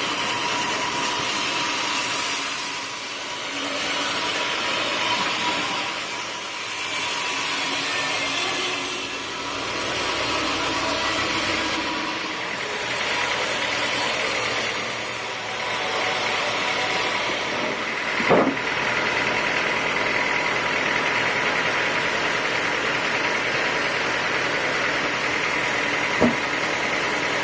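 Sawmill band saw running and cutting through a teak log, with the machine's motor running steadily underneath. Two sharp knocks stand out, one about two-thirds of the way through and one near the end.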